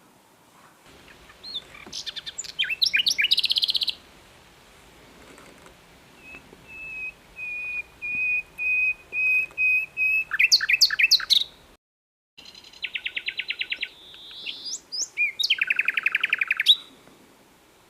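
Common nightingale singing, a string of varied phrases: quick rising notes ending in fast trills, a run of slow repeated piping whistles that grow louder, then fast buzzy rattles. The sound cuts out completely for about half a second near the middle.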